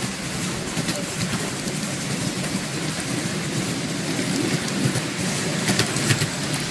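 Miniature railway train running: the steady rumble and rattle of the passenger cars on the track, heard from aboard, with a few sharp clicks near the end.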